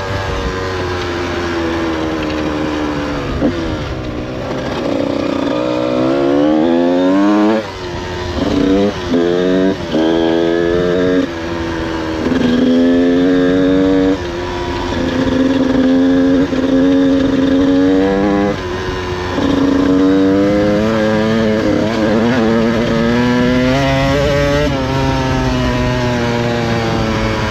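Motorcycle engine being ridden, revving up and down repeatedly: several quick rises in pitch in a row, then longer stretches of steadier running with smaller throttle changes.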